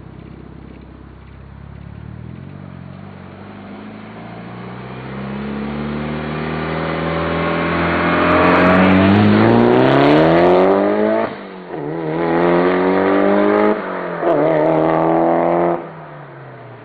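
Mitsubishi Lancer Evolution VIII's turbocharged 2.0-litre inline-four, breathing through a turbo-back exhaust, accelerating hard: revs climb steadily for several seconds, drop at two quick upshifts and climb again each time, then the engine lets off and dies down near the end.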